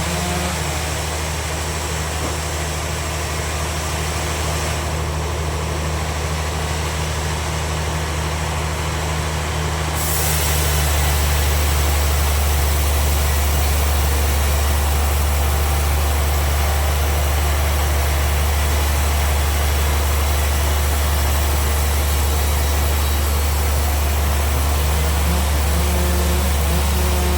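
Bandsaw sawmill machine running steadily with a deep, continuous hum, growing louder about ten seconds in and staying at that level.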